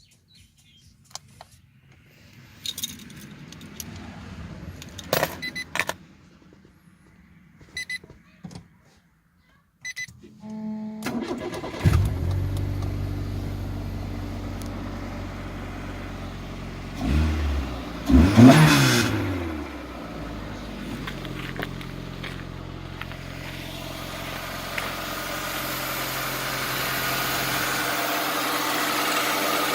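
Clicks and a jingle of keys, then about eleven seconds in the starter cranks briefly and the 1989 Nissan Sunny's SR20 low-port four-cylinder engine catches and settles into a steady idle. About eighteen seconds in it is revved once, pitch rising and falling, then it idles again, growing slowly louder near the end.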